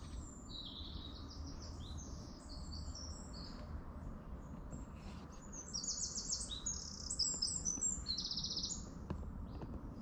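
Small woodland birds chirping, with runs of quick high-pitched notes and short trills, busiest a little past the middle, over a low steady rumble.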